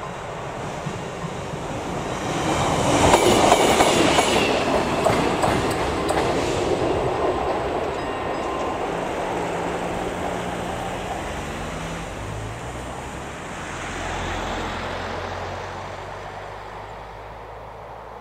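A ČD class 814 diesel railcar passing over the level crossing, its wheels clattering over the rail joints and crossing, loudest a few seconds in, then fading away. Near the end, car engines pull away across the crossing once the barriers have lifted.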